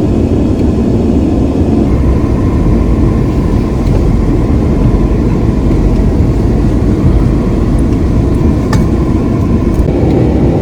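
Car driving, with steady engine and road noise.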